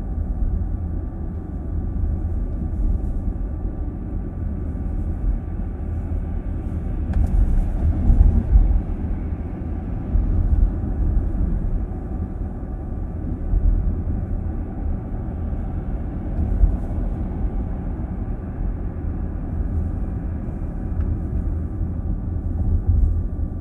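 Car interior driving noise: a steady low rumble of tyres and engine heard inside the cabin, swelling briefly louder about eight seconds in.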